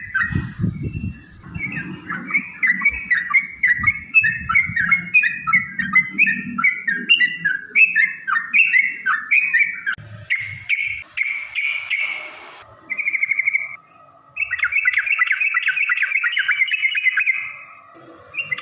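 Yellow-vented bulbul song: a long run of quick, bubbly chattering phrases over a low rumble. About ten seconds in comes a harsher scratchy stretch. After a short break there is a fast rolled trill, the long 'ropel' run.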